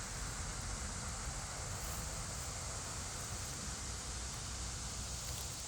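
Steady outdoor background noise in woodland: an even hiss over a low rumble, with no distinct sounds standing out.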